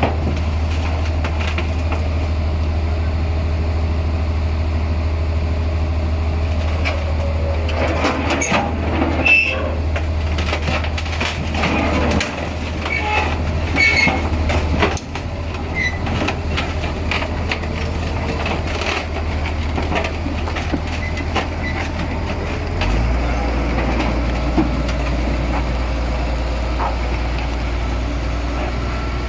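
Komatsu D58P crawler bulldozer working, its diesel engine running steadily with metallic clanking and rattling from the machine, heaviest in the middle stretch. Later the engine note steps down lower.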